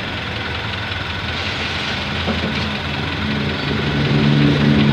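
Honda CR-V third-generation engine idling as it warms up during radiator coolant bleeding. A louder low hum joins about three and a half seconds in and raises the level.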